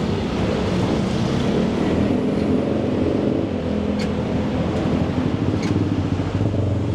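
Red songthaew pickup truck running on the road, with steady engine and road noise heard from aboard; two faint clicks come midway, and near the end the engine note rises as it picks up speed.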